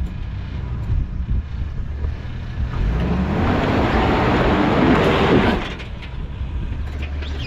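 Off-road 4x4 engine running under load on a rock climb. It revs up hard for about three seconds from around the third second, with a rising pitch and a rush of noise, then drops back to a lower rumble.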